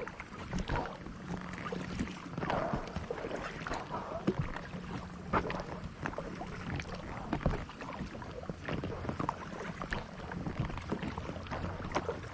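Kayak paddle strokes in water: irregular splashes and drips from the paddle blades, over a low steady hum.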